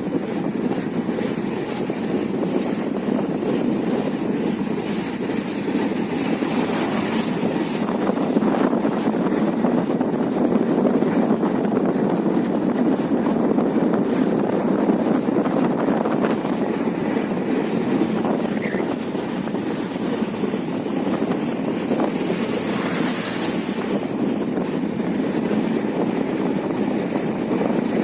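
Nilsagar Express passenger train running along the track: a steady, continuous rumble of the train in motion, a little louder in the middle.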